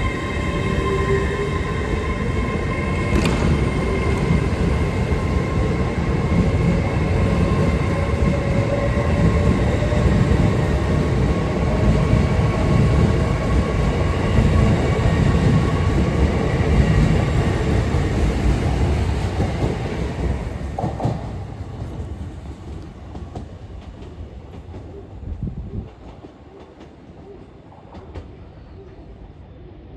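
LNER Class 801 Azuma electric multiple unit pulling out of the station: a loud rumble of wheels with several steady whines and a slowly rising traction whine as it gathers speed. It fades away over the last third, leaving a few faint clicks.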